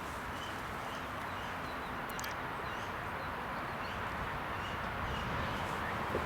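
Small bird calling in short, high chirps, repeated every fraction of a second, over a steady background hiss and rumble, with a single sharp click about two seconds in.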